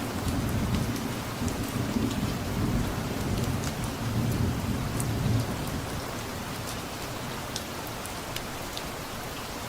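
Steady rain falling, with separate drops ticking, under a low rumble of distant thunder that fades out a little past halfway.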